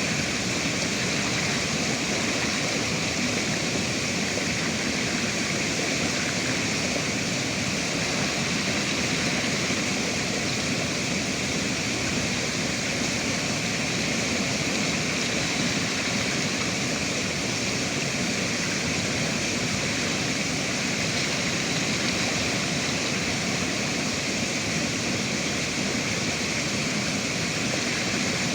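A river's flowing water, a steady even rush with no breaks or separate splashes.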